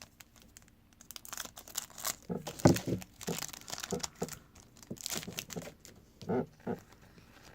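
Crinkling and rustling of trading cards and their pack being handled, in irregular bursts, with a louder knock about two and a half seconds in.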